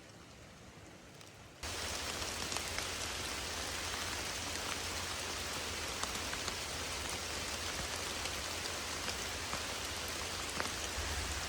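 Steady rain falling, with single drops ticking close by; it jumps suddenly louder about a second and a half in.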